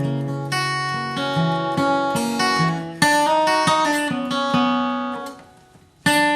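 Acoustic guitar flatpicking a single-note bluegrass melody line, the notes plucked one after another and left to ring. Near the end the sound dies away briefly before a new note is picked.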